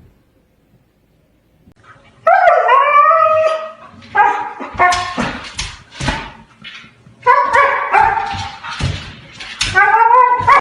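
A dog vocalizing loudly: drawn-out calls that waver in pitch, mixed with short sharp barks or yips, starting about two seconds in.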